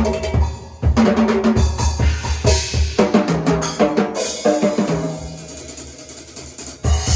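Drum kit being played: rapid bass drum, snare and tom strokes, easing into a quieter stretch about five seconds in before a loud hit brings the full kit back near the end.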